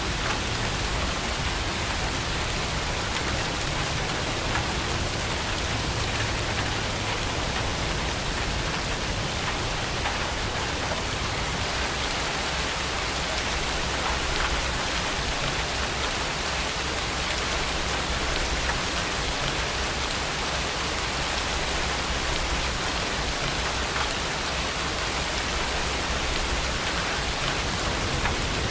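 Heavy rain falling steadily, a dense even hiss with scattered drop patter.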